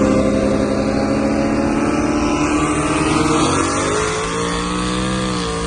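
Turbocharged sports car engines under hard acceleration during a race, running with a steady drone. The pitch climbs slowly, then drops about three and a half seconds in as the throttle comes off or a gear changes, and settles at a lower, steady pitch.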